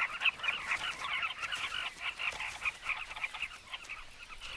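Carmine bee-eater breeding colony calling: many short calls overlapping at once in a dense chatter.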